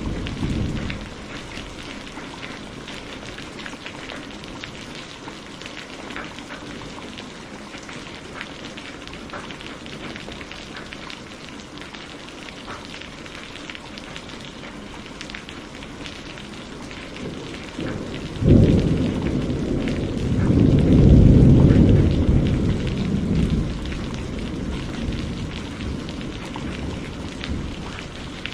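Steady rain during a thunderstorm. A roll of thunder dies away just at the start. About eighteen seconds in, a sudden thunderclap breaks into a low rolling rumble that swells for a few seconds and then fades back under the rain.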